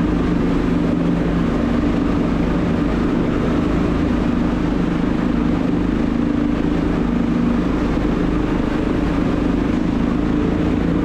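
Motorcycle engine running steadily at an even, unchanging speed.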